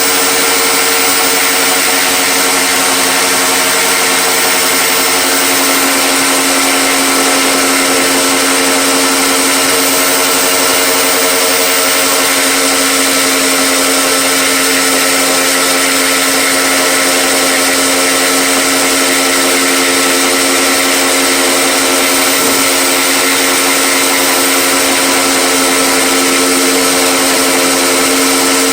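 Electric power tool motor running steadily at constant speed, with a steady whine over a hiss.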